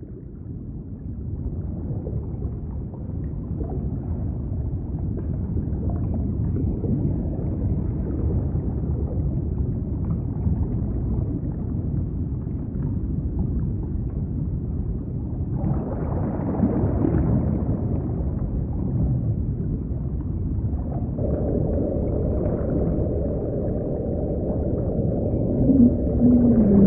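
Underwater ocean soundscape: a deep, dense rumble fades in, a higher hiss joins about two-thirds of the way through, and a steady tone comes in soon after, with a short wavering low call near the end.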